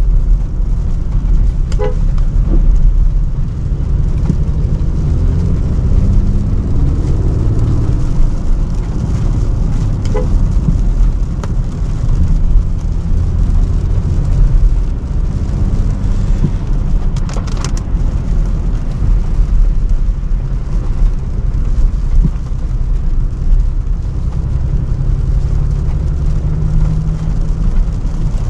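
Range Rover Sport driving through city traffic: a steady low road rumble, with short car-horn toots about two seconds and ten seconds in and a quick run of clicks a little past halfway.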